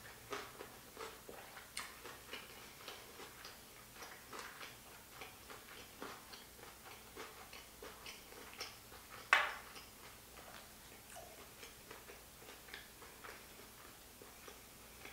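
Close-up chewing of a sushi roll with thick, crunchy raw carrot: a run of small irregular crunches, with one louder click about nine seconds in.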